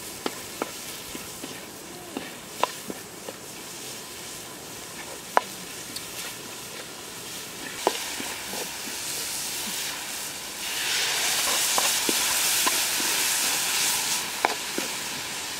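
Sliced red chillies, garlic and shallots sizzling in oil in a wok while a wooden spatula stirs them, with a few sharp clicks of the spatula against the wok. The sizzling grows louder for a few seconds from about ten seconds in.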